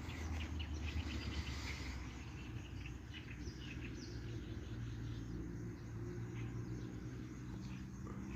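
Many short high chirps, thickest in the first couple of seconds, over a steady low hum.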